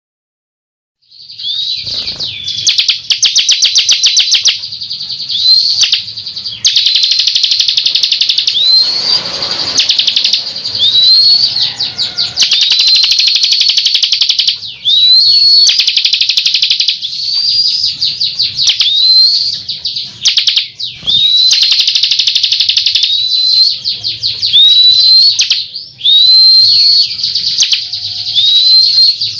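Ciblek kristal, a prinia, singing loudly and without pause: repeated short upswept whistles mixed with fast rattling trills of ticking notes. This is a lure song used to call other ciblek.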